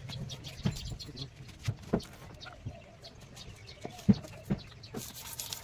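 Scattered sharp knocks and taps at irregular intervals, the loudest about four seconds in, with faint bird chirps behind.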